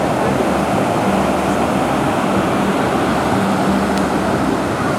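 Steady, loud motor drone mixed with rushing water and wind noise, with no distinct events.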